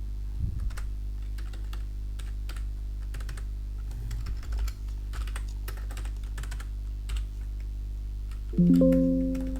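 Computer keyboard typing and clicks, irregular and light, over a steady low electrical hum as an order price is keyed in. Near the end a loud pitched musical tone sounds and dies away over about a second.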